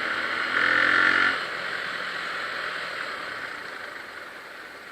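A vehicle horn honks once for just under a second, about half a second in. Steady riding noise of wind and engine runs underneath and slowly fades.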